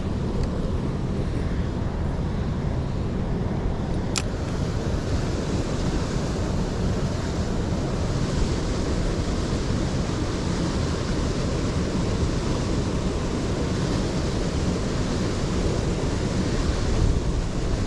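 Steady rushing noise of a valley stream, with a low rumble of wind on a GoPro microphone. A single sharp click about four seconds in.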